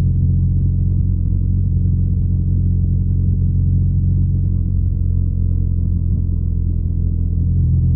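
BMW R nineT's air/oil-cooled boxer twin running steadily at an even engine speed while the motorcycle rides along, with a deep, unchanging exhaust note.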